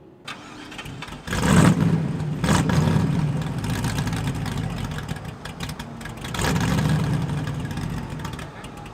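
Race car engine starting and catching about a second in, then blipped and revved a few times before settling back near the end.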